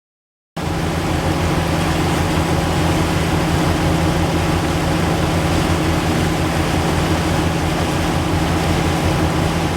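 The Bertram's twin Detroit Diesel 6V53 two-stroke V6 diesel engines running steadily, a low drone with a rushing noise over it. The sound cuts in abruptly about half a second in.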